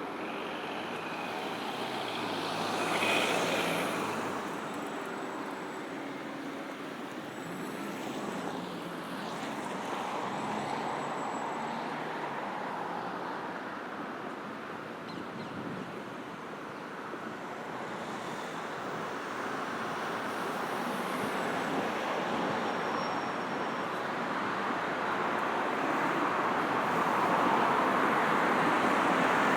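Steady road traffic on a busy city road: a continuous wash of passing cars' tyre and engine noise, with one vehicle passing close about three seconds in and the traffic growing louder towards the end.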